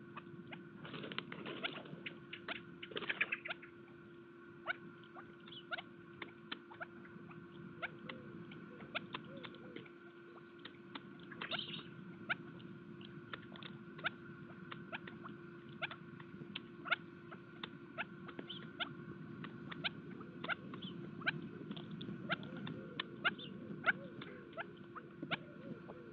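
Birds pecking at seed on a feeder: irregular sharp taps and clicks, a few a second, over a faint steady hum.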